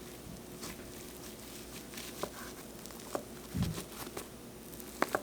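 Knife cutting a soft homemade gelatin marshmallow slab into pieces: scattered light taps and clicks of the blade and handling, with a dull thump about three and a half seconds in, over a faint steady hum.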